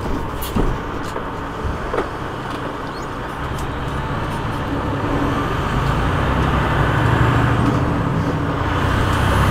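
Semi truck's diesel engine and road noise heard from inside the cab while driving, the engine hum growing louder over the last few seconds as the truck pulls. A couple of brief knocks about half a second and two seconds in.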